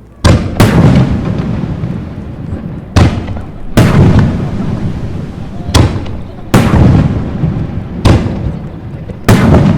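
Aerial fireworks shells bursting: about eight loud booms in irregular pairs, a second or two apart, each trailing off in a low rumbling echo.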